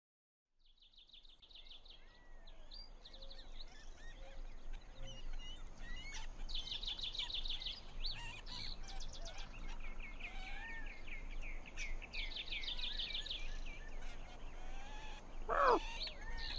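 Birds chirping and trilling, a layered birdsong ambience that fades in from silence about half a second in. Near the end there is a louder call that slides down in pitch.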